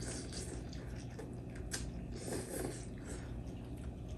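Quiet eating sounds: people chewing spicy instant noodles, with a few small clicks and a soft hissy breath or slurp about two and a half seconds in.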